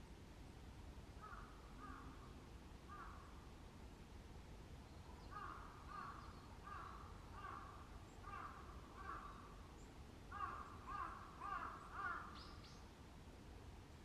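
A wild bird giving a series of short, repeated calls at about two a second, in three bouts, the last bout the loudest, with a thinner high-pitched call from another bird near the end.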